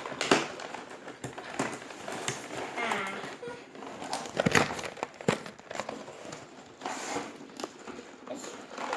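Toy car packaging being handled and opened, crinkling and rustling, with scattered sharp clicks and taps.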